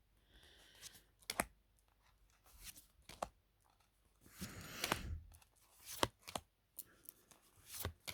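Tarot cards being handled and flipped through: several light snaps and clicks of card stock, with a longer sliding swish of cards about four and a half seconds in.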